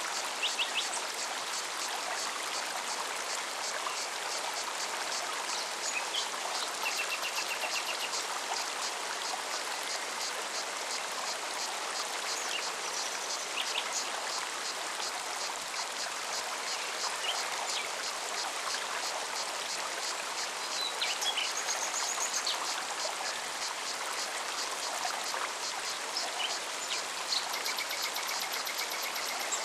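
Forest stream running steadily over rocks, with a cicada's fast, even pulsing buzz high above the water and short bird chirps scattered through.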